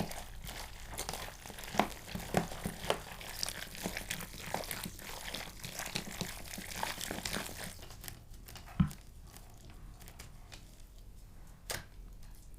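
Hands mixing oiled, brined meat in a bowl: a run of small wet squishes and crackles for about eight seconds, then a single thump and, later, a sharp click.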